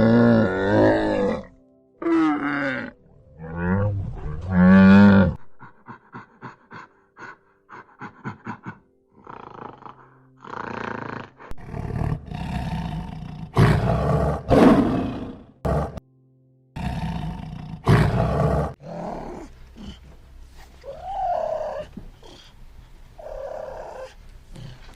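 Recordings of several different animals calling one after another: wavering pitched calls, then a run of quick clicks, then loud roars, with quieter calls near the end.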